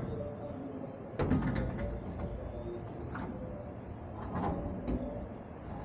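Hard knocks and clatter from metal parts being handled and set down on a truck, the strongest group about a second in and single knocks near three and four and a half seconds, over a steady low rumble.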